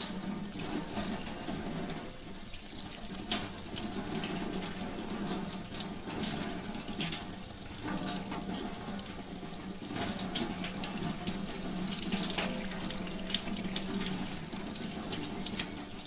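Tap water running steadily and splashing into a sink as a front-load washing machine's drain pump filter is rinsed clean under it.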